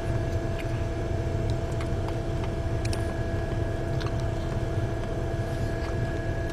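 Steady low rumble with a constant hum, like a running vehicle engine, with a few faint short clicks scattered through.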